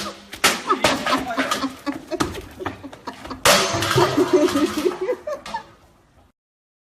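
A jumble of sharp knocks and clattering impacts mixed with short bursts of voices or laughter, with a loud crash about three and a half seconds in. It fades and cuts to dead silence about six seconds in.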